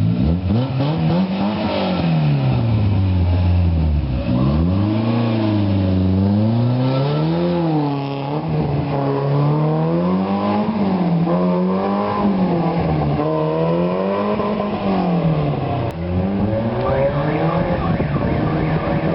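Renault Clio II engine revved up and down over and over through a free-flowing high-flow exhaust, with a cone air filter on the intake. One slow rev up and back down comes first, then quick blips about once a second.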